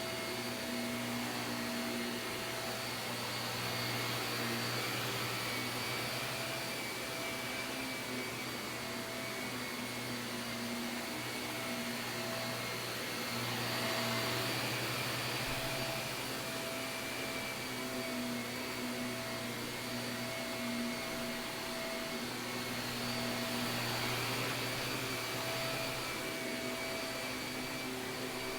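Shark upright vacuum cleaner running steadily on carpet, a constant motor drone with a high whine. The loudness swells and eases every ten seconds or so.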